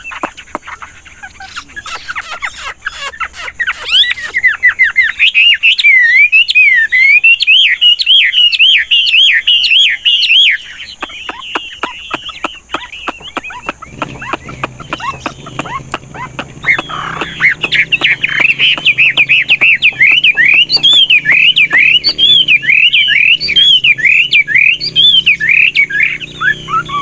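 Chinese hwamei singing a long, varied song of rapid whistled phrases that swoop up and down, changing its notes continually. The song breaks off for about three seconds near the middle, leaving quieter clicking notes, then resumes.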